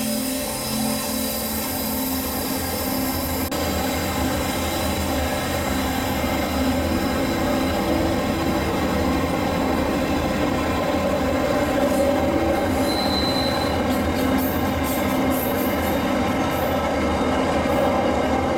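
Steam-hauled heritage train running along the track with a steady rumble, and a brief high squeal from the wheels about two-thirds of the way through.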